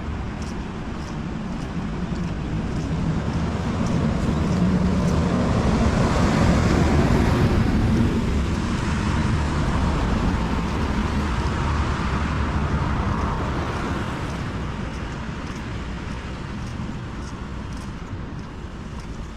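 A vehicle passing slowly on a wet road: tyre hiss and engine noise swell to a peak about six to eight seconds in, then fade away.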